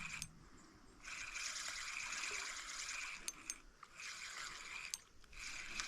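Fishing reel being cranked to bring in a hooked crappie, a steady whir in three runs with short pauses and a few sharp clicks between them.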